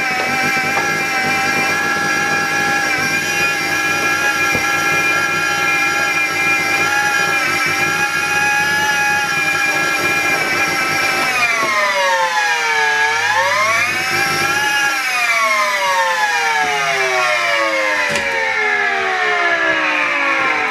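Miele Complete C3 vacuum cleaner motor running with a steady high whine. About twelve seconds in, the pitch dips and comes back up, then falls steadily as the motor winds down. The owner takes the fault for a broken motor that needs changing.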